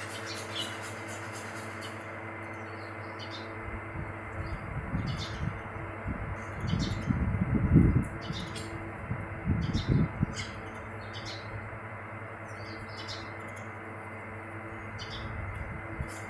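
Birds chirping: short, scattered chirps over a steady low hum. From about four seconds in a louder low rumble with knocks builds, loudest near eight and ten seconds in, then fades.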